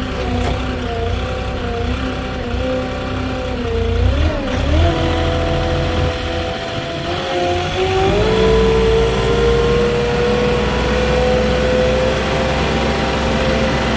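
Moffett truck-mounted forklift's engine running under load as the machine drives. Its pitch dips and rises about four seconds in, steps up near eight seconds, then holds high and creeps slowly upward.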